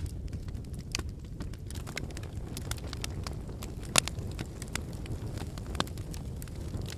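Wood campfire burning: a steady low rumble of flames with scattered crackles and pops of burning firewood, one sharp loud snap about four seconds in.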